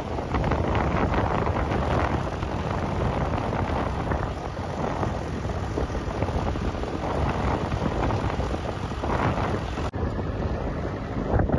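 Wind buffeting the microphone over the running of tractor engines, with a brief dropout about ten seconds in.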